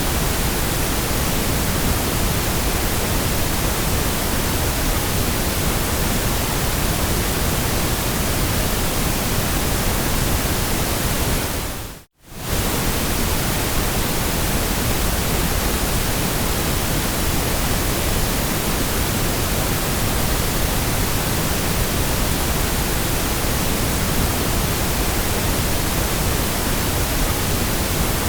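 Steady synthetic white noise, an even hiss across the whole range. About eleven seconds in, it fades out to near silence and comes straight back within about a second and a half, like a loop seam in the track.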